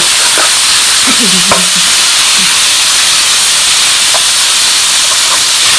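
Pork and chilies sizzling loudly in hot oil in a pan as they are stir-fried, a steady frying hiss.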